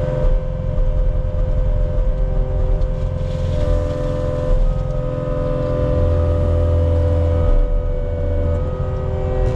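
Diesel engine of a compact earthmoving machine running steadily, a low rumble with a steady whine over it. The rumble swells briefly past the middle.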